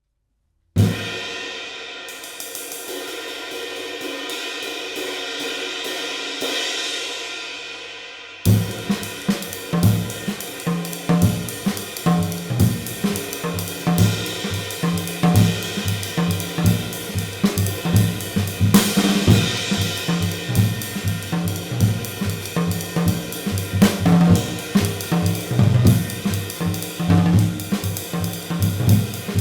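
Handmade 19-inch extra-light ride cymbal in B20 bronze, weighing 1537 g, played on its own for about eight seconds with its wash swelling. A drum kit then joins with bass drum and snare under the ride in a steady groove.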